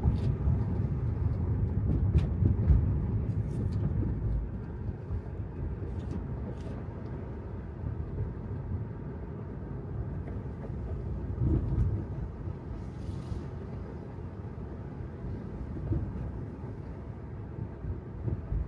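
Road and tyre noise of an electric Tesla Model 3 driving on wet city streets: a steady low rumble that eases off partway through, with a few light knocks and clicks.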